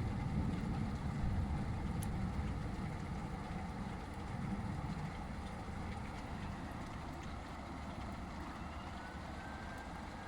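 Thunder rolling as a low rumble that slowly dies away, over the steady hiss of rain.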